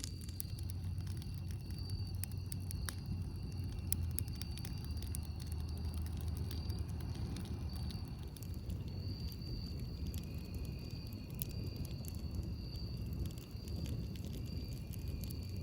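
Campfire crackling, with irregular sharp pops and snaps over a steady low rumble. Faint high-pitched steady tones come and go in the background.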